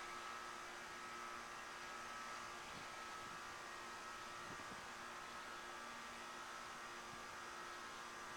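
Faint steady hiss with a steady electrical hum: background noise only, with no thunder or other event heard.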